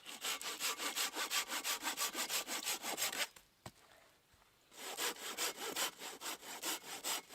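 Silky folding hand saw cutting through a small piece of soft, punky wood with quick, even strokes. The sawing stops about three seconds in and starts again about a second and a half later.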